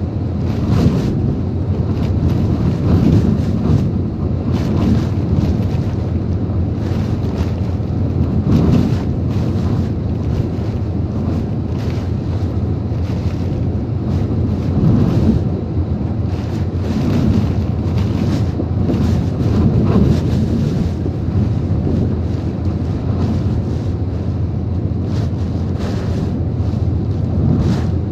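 Typhoon-force wind and heavy rain, a dense steady rush that swells and eases in gusts every few seconds, with wind buffeting the microphone.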